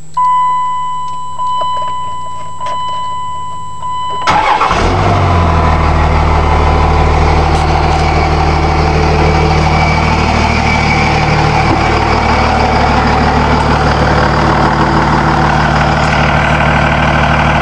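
2000 Dodge Ram 2500's 24-valve 5.9-litre Cummins inline-six turbo diesel cranking and starting about four seconds in, then idling steadily. A steady high tone plays until the engine cranks.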